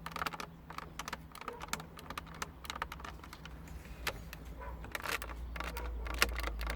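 Plastic creaking and crackling in a quick, irregular run of clicks as the Kia Rio 4's climate control unit is worked by hand and rubs against the plastic housing it sits in. This plastic-on-plastic rubbing is the cause of the dashboard creak.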